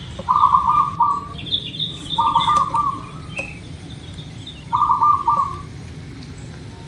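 Zebra dove (perkutut) cooing: three short phrases of quick stuttering notes, a couple of seconds apart. Higher, fainter bird chirps sound between the first two phrases.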